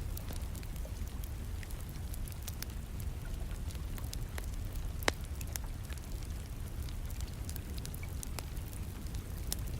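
Wood fire crackling in a fireplace, with scattered small pops and one sharp loud pop about five seconds in, over a steady background of rain.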